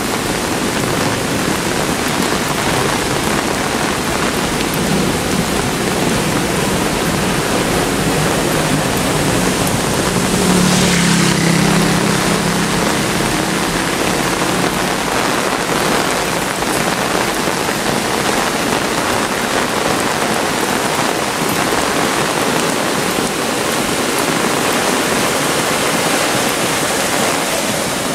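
Heavy rain falling steadily. About ten seconds in, a brief louder passage with a low hum rises over the rain and fades within a couple of seconds.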